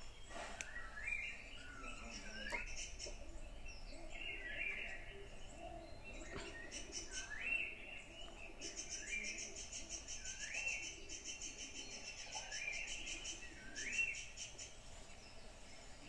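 Songbirds calling in woodland: a short rising call repeated over and over. About halfway through, a fast, high, buzzing trill joins in and stops shortly before the end.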